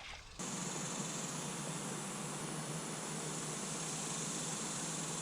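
Steady high-pitched insect chorus over an even hiss, starting abruptly about half a second in.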